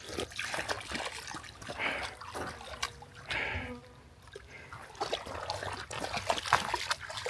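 A dog wading and splashing in shallow lake water: irregular small splashes and trickling drips.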